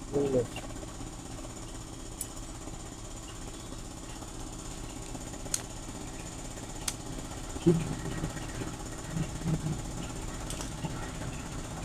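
A steady low machine hum, like an engine running, with a few sharp clicks and short low sounds along the way.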